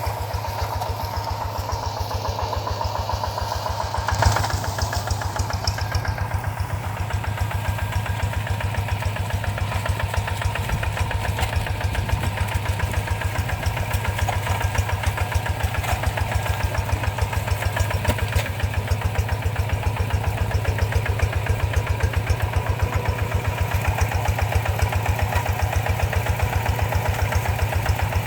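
Rice-field tractor's diesel engine running steadily with an even, pulsing beat. A single short knock sounds about four seconds in.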